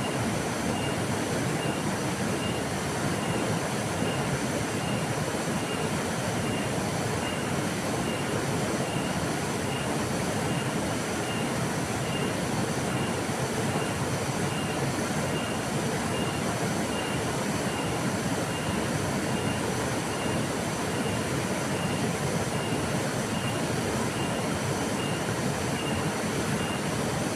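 River water flowing in a steady, even rush. A faint short high chirp repeats evenly, about one and a half times a second.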